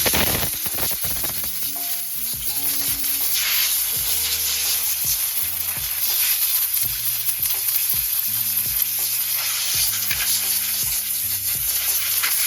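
Compressed air hissing from an air-hose nozzle as it blows dirt off a small RC nitro engine. The hiss is loud and continuous, rising and falling a little as the nozzle moves.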